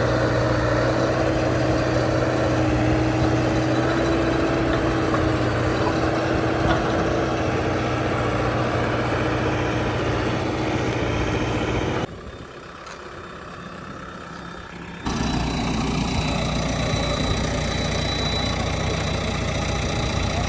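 JCB 3DX backhoe loader's diesel engine running steadily. For about three seconds just past the middle the sound drops sharply, then comes back just as suddenly.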